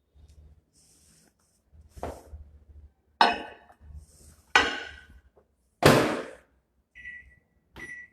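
A microwave oven being loaded and set: three sharp knocks of the door and dish, the last the loudest, then two short keypad beeps near the end.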